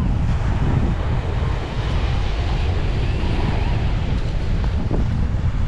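Strong wind buffeting the microphone, a steady low rumble, with surf behind it. Faint wavering tones sound through it.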